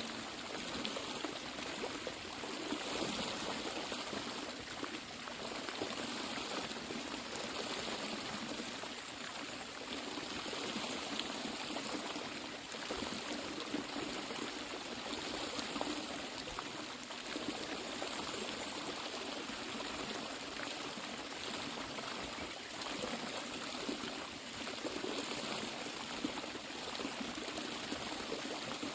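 Water running steadily, like a small stream or a flowing hot-spring channel, with a continuous rush.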